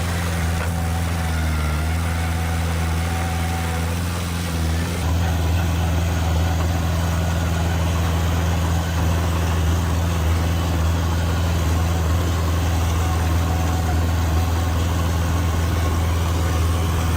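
Heavy diesel engine of construction machinery running steadily, a deep even hum that steps up slightly about five seconds in.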